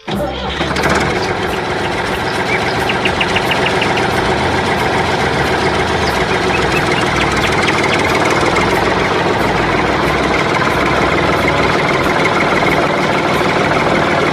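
A small machine running steadily, with a fast run of light ticks a few seconds in.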